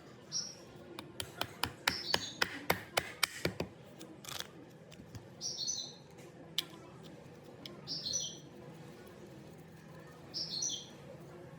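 A small bird chirping, one short falling chirp repeated at roughly two-and-a-half-second intervals. During the first few seconds there is also a quick run of sharp clicks or taps, about four a second.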